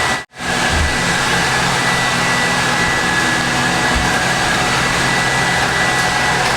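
Robot vacuum cleaner running: a steady, loud whir of its suction fan with a thin high whine, cutting out for an instant just after the start.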